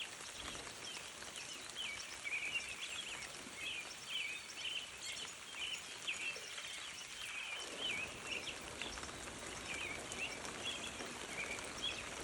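Short high chirping calls from small animals, repeating two or three times a second, over a steady outdoor hiss; a low rushing noise comes up about two-thirds of the way through.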